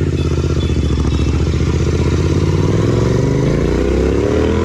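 Royal Enfield Continental GT 650's 648 cc parallel-twin engine and exhaust under way. The note holds steady, then rises in pitch from about two seconds in as the bike accelerates.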